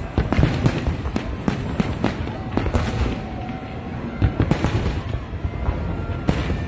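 Aerial fireworks shells bursting in quick succession: a dense run of sharp bangs and crackles over deep booms.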